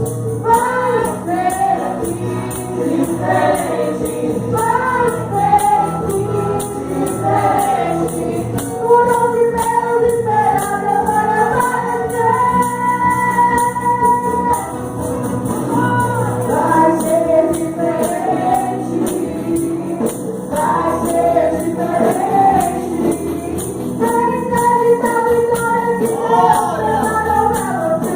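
Congregation singing a Pentecostal hymn in unison with a tambourine shaken in a steady beat.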